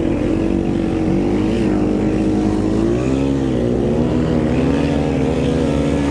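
Racing quad's engine running hard under load, its pitch wavering up and down with the throttle and dropping a little about halfway through before holding lower.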